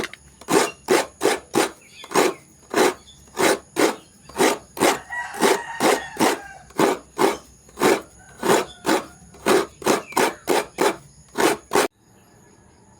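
Coconut being grated by hand, rasping strokes of the nut against a serrated grater at about two a second. The strokes stop suddenly near the end.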